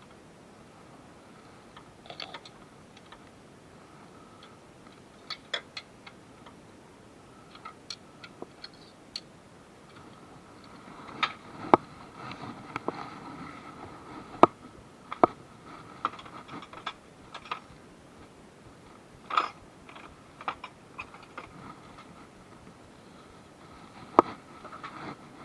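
Irregular sharp clicks and knocks of hand tools on metal during car engine work, thicker in the middle and with one loud knock near the end.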